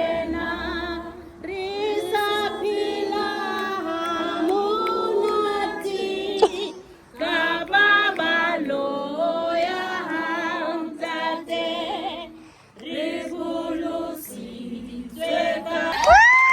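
A group of voices singing a hymn together unaccompanied, in phrases with short breaks between them.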